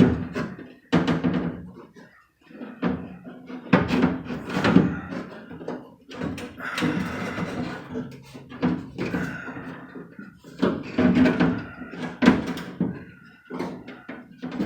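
Metal knocks, clunks and scraping inside a steel Dodge pickup door shell as the window regulator is worked loose from the door glass and slid off its track. The knocks are irregular, with short metallic ringing, and there is a stretch of scraping about halfway through.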